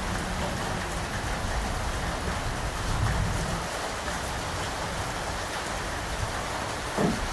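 Steady rain falling on surfaces, with a single louder drop hitting near the end.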